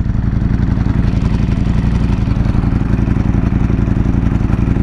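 Sport motorcycle engine running at a steady road speed, heard from on board the bike while riding.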